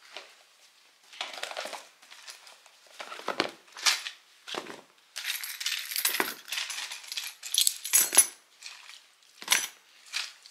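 Handbag contents being moved and repacked: irregular rustling of the bag and its lining with clinks and light knocks of small hard items.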